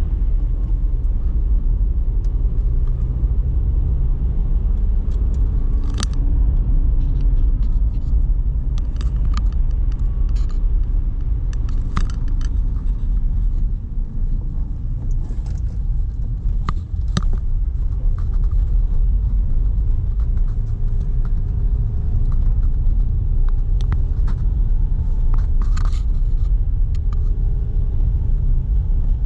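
A car driving along a road, heard from inside the cabin: a steady low road and engine rumble, with scattered light clicks over it.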